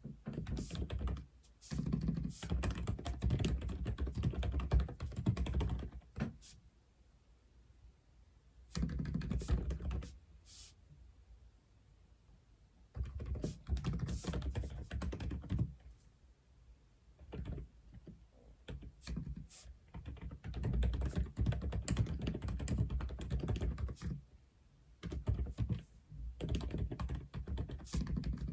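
Typing on an Aula F87 (독거미) mechanical keyboard: rapid runs of key clicks lasting a few seconds each, separated by short pauses.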